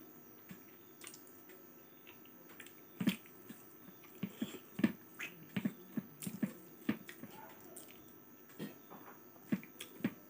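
Close-miked mouth sounds of someone eating with his hand: chewing and wet lip-smacking clicks, sparse at first and coming thick and fast from about three seconds in.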